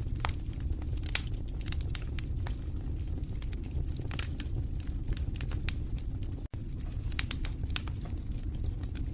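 Wood fire in a fireplace crackling, with irregular sharp pops and snaps over a steady low rumble of the flames. The sound cuts out for an instant about two-thirds of the way through.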